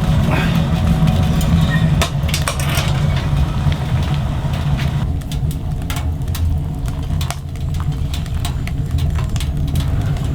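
A steady low rumble with scattered sharp cracks and clicks over it.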